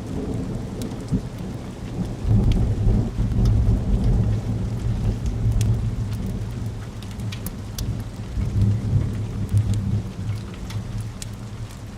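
Steady rain with a long, low roll of thunder that swells about two seconds in and rumbles on, easing near the end, with sharp pops of a crackling wood fire scattered over it.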